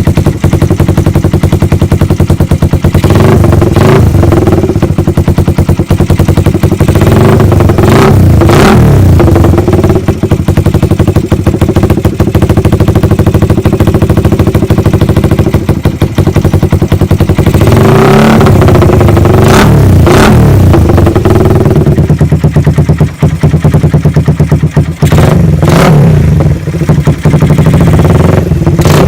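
Suzuki Satria FU 150's single-cylinder four-stroke engine idling loudly through an aftermarket racing exhaust, blipped to higher revs about five times before dropping back to idle each time.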